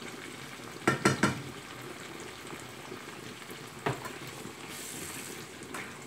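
Sliced tomatoes and onions sizzling as they fry in a frying pan, the tomato-and-onion base of an egg sauce. They are being stirred with a spatula, which knocks against the pan three times in quick succession about a second in and once more near four seconds and near the end.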